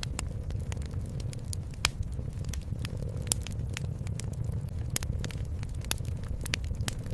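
Wood fire crackling, with sharp irregular pops and snaps scattered through, the strongest about two seconds in and again a little after three seconds, over a steady low rumble.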